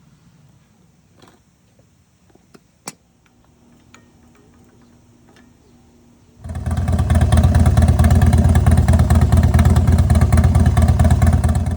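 A few light clicks, then about six seconds in a Harley-Davidson Road Glide Ultra's V-twin engine comes in loud and runs steadily, and cuts off abruptly near the end. It is running again after sitting for two years.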